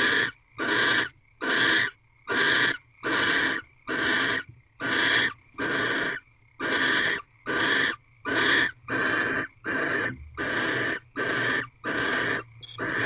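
Barn owl giving a long, regular series of harsh hissing screeches, about one and a half a second, each a short rasping burst with no clear pitch.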